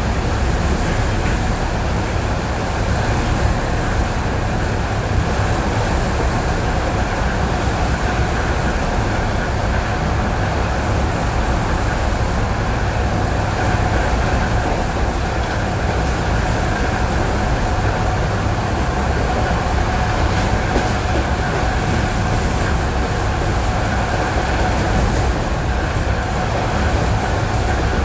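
ED9E electric train heard from inside the carriage running at steady speed on jointed rail: a continuous wheel-and-track rumble with a constant whine in the mid range.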